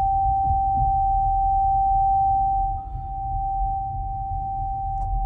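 A steady single high-pitched electronic tone inside the cabin of a Haval H6 HEV, a fault noise of unknown origin that carries on even with the car switched off and shows no warning on the dash. Under it is a low vehicle rumble that drops about two-thirds of the way through.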